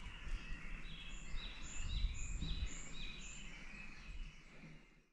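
A songbird repeats a short falling call about five times, roughly two a second, with other birdsong fainter behind it over a low outdoor rumble. It all fades out near the end.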